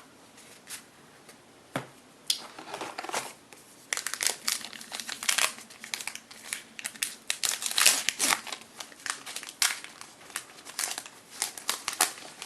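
Crinkling and tearing of a foil baseball card pack wrapper being ripped open and handled: a few scattered crackles at first, then about four seconds in a dense, irregular crinkling that runs on.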